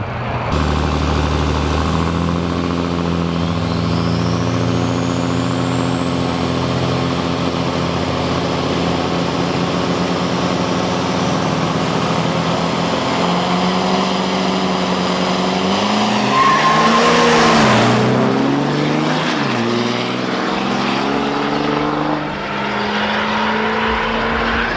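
Turbo-diesel drag-racing trucks running, with a thin high whistle that rises slowly in pitch for several seconds. About two-thirds of the way in, a louder swell comes as a truck passes close, its engine note dipping and rising.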